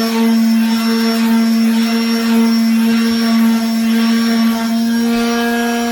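Electric sander motor running steadily at a constant speed, with a loud, even hum, as the table's wooden top is sanded with the grain.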